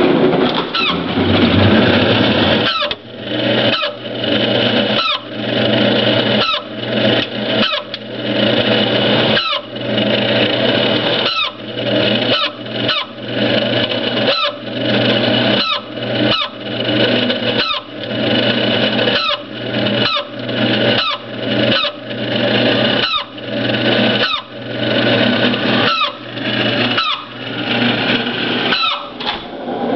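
Refrigerator-freezer making a steady hum with short, squawking squeals that slide down in pitch, about one a second and irregular. The unit is frosting up in the freezer and not cooling the fridge properly.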